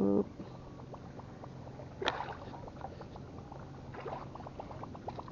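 A cast: a lure splashing down on the water about two seconds in, then light, regular ticking, about four a second, typical of a casting reel being cranked to retrieve the lure.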